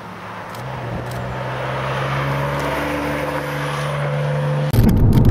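Porsche 911 Turbo's flat-six engine heard from the trackside, a steady note growing steadily louder as the car comes closer. Near the end it cuts abruptly to a much louder engine sound from inside a car.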